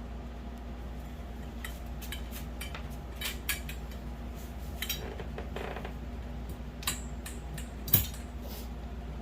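Metal grow-tent frame poles clinking and knocking as they are handled and pushed into their connectors: scattered light clicks, with one sharper knock about eight seconds in, over a steady low hum.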